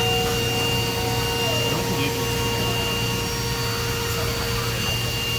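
DMG Mori DMC 1035V vertical machining center running a drilling cycle, its spindle turning at about 10,200 RPM with 1000 psi coolant fed through the spindle. The sound is a steady whine over a constant hiss and low hum.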